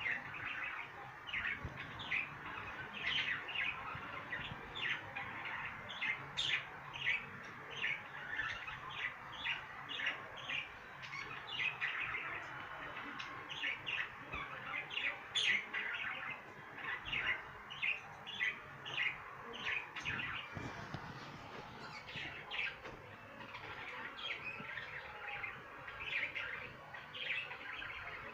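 Budgerigars chirping and chattering in a cage: a steady stream of short, high chirps, two or three a second, with a few brighter, sharper calls among them.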